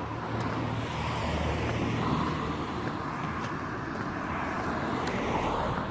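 A passing motor vehicle: a low rumble with a broad hiss that swells over the first couple of seconds and then holds steady.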